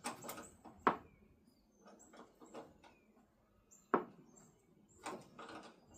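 Scattered sharp metal clicks and clinks of nuts and a wrench being handled as nuts are fitted and tightened onto studs, with the loudest knocks about a second in and about four seconds in.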